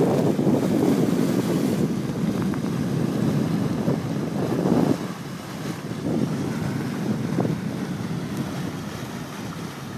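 Wind buffeting the microphone over the rush of water along a sailboat's hull, coming in surges; one surge drops away sharply about five seconds in.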